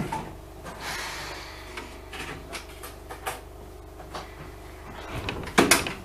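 Inside the cab of an Enshu Railway 1000-series electric train: a steady low hum with scattered clicks and knocks, and a loud double thump near the end.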